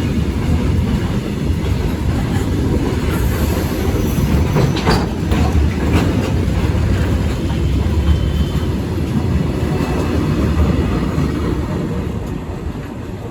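Train hauled by a WAG12 electric freight locomotive rolling past: a steady rumble of wheels on rail with a few sharp clicks, beginning to fade near the end.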